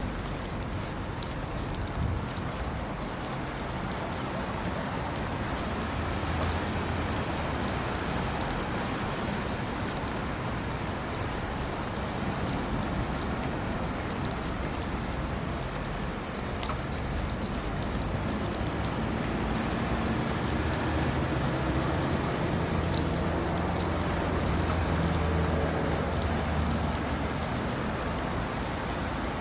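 Steady rain falling, with scattered drops ticking sharply. A low steady hum joins in the second half and fades near the end.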